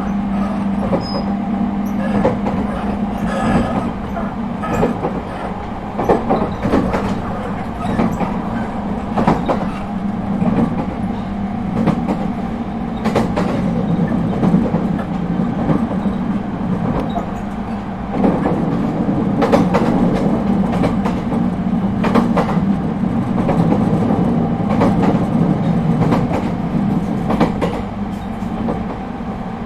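ET127 series electric train with Toyo IGBT-VVVF inverter running between stations, heard on board: a steady low hum with wheels clicking over rail joints at irregular intervals. It gets a little louder about two-thirds of the way through.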